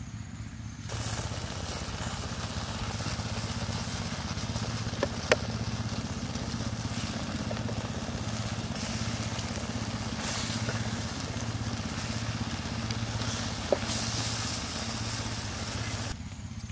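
Frog pieces and potato chunks sizzling and crackling in oil in a small wok over a wood fire, with two sharp clicks of the spatula against the pan. A steady low hum runs underneath.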